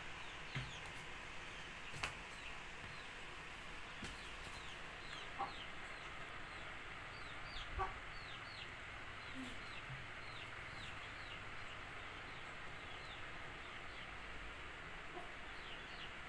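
Faint background birds chirping, many short falling chirps, at times several a second, with a few soft knocks and rustles, the loudest about eight seconds in.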